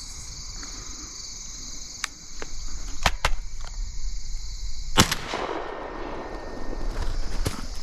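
Shotgun fired once about five seconds in, the report rolling away afterwards, with several fainter sharp cracks before and after it. A steady chorus of insects runs underneath.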